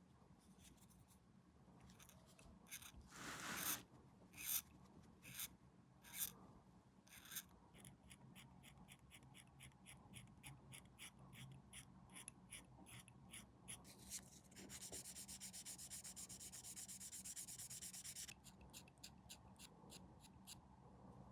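Faint hobby-tool work on plastic model kit parts: scattered light clicks and scrapes, a longer rub about three seconds in, and a few seconds of rapid, even scraping strokes past the middle, like sanding or filing a small plastic part.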